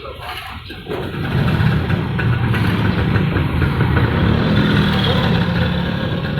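An engine running steadily, getting louder about a second in.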